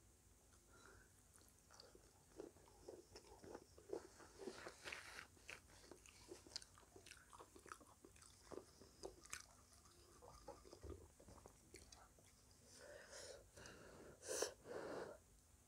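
Faint close-up chewing and crunching of crisp fried pastry snacks: a run of small crackling crunches, then a louder bite and crunch near the end.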